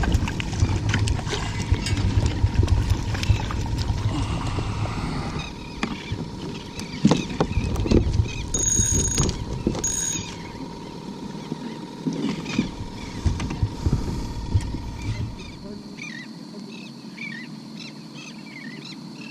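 A kayak moving through water, with splashing and knocks against the hull. Wind buffets the microphone for the first few seconds, and birds chirp near the end.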